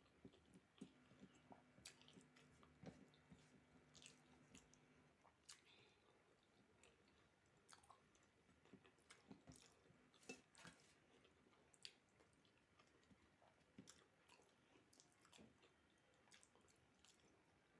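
Faint close-up chewing and mouth clicks from someone eating a meal of rice and dal, with irregular small smacks and clicks.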